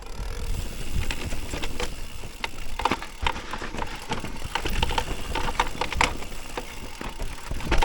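Mountain bike rattling and clacking over rough, rooty ground, with irregular sharp knocks and clicks from the bike and a steady low rumble underneath.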